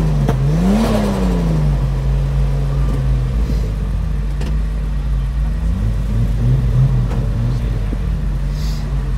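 A car engine revs up once and falls back about a second in, then runs steadily, with a couple of smaller rev rises later.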